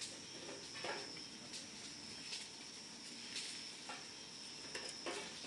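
Campfire crackling as it catches, with irregular sharp pops and snaps every second or so. A steady high-pitched insect trill runs beneath.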